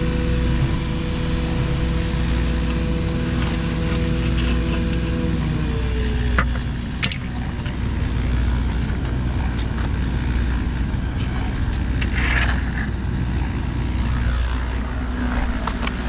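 An engine running steadily with a low rumble. Its tone fades about six seconds in, sliding slightly down, leaving the rumble with scattered light knocks and clicks.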